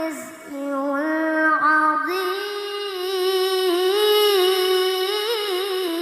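A child qari reciting the Qur'an in melodic tilawah style, drawing out the words 'dhalika al-khizyu' in long sustained notes with wavering ornaments. There is a short drop just after the start, then the voice holds the melody.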